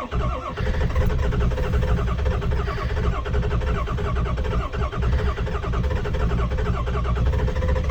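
7.3-litre V8 diesel truck engine cranking on its starter in a hard cold start at 7 degrees without a block heater, turning over in a steady rhythm but not yet catching.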